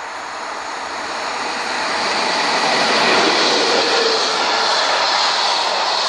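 Container freight train passing close by on electrified main-line track. Its noise rises as the locomotive approaches and goes past about two to three seconds in, then holds steady as the loaded container wagons roll by.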